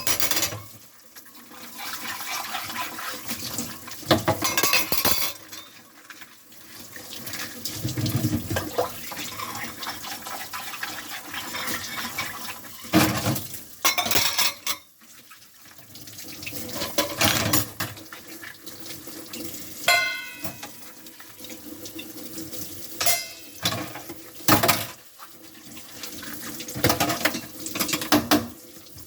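Dishes being washed by hand at a kitchen sink: tap water running on and off while dishes and cutlery clink and knock against each other and the sink.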